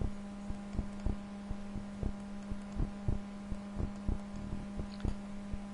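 Steady electrical hum with a low pitch, under irregular soft low clicks a few times a second.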